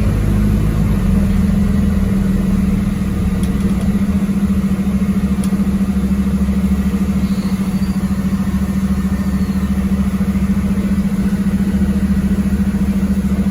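MAZ-206 city bus engine running with a steady drone over a low rumble, holding an even pitch throughout.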